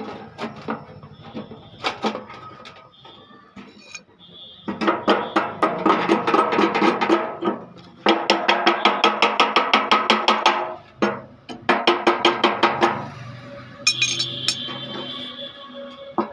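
Rapid hammer blows on the metal spider of a washing-machine drum, about four to five strikes a second in three bouts, each blow ringing, with single knocks in between.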